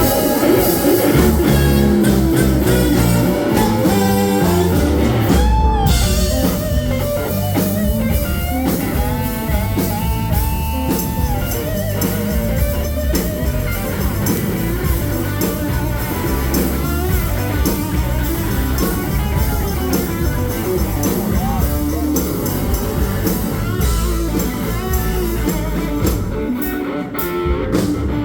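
Southern rock band playing live: electric guitar over bass and drum kit, the song just under way.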